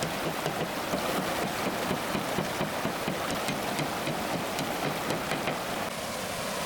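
Steady rush of flowing water, with many small drips and splashes through it.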